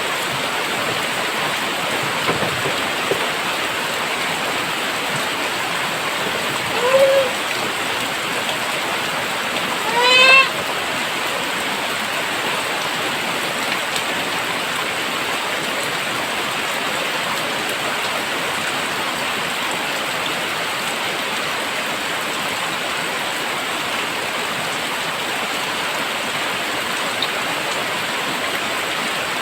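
Heavy rain falling steadily in a dense, even downpour. Two short pitched calls cut through it, a faint one about seven seconds in and a louder one about ten seconds in.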